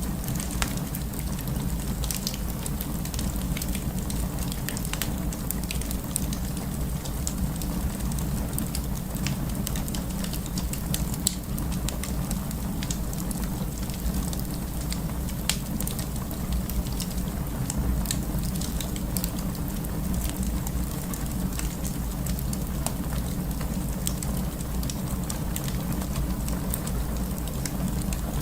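Wood fire crackling in a fireplace: scattered sharp snaps and pops over a steady low rumble of the flames.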